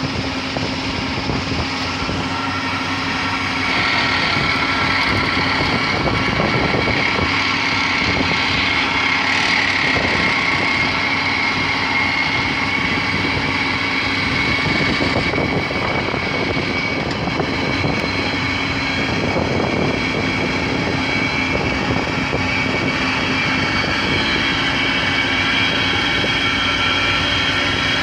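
Excavator running with its hydraulic compactor attachment at work: steady machine noise with a constant engine drone, getting louder about four seconds in.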